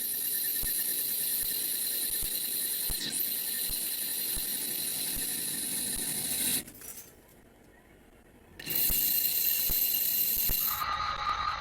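A machine running with a steady high-pitched hiss and squeal. It drops out for about two seconds midway, comes back, and near the end changes to a lower steady whine.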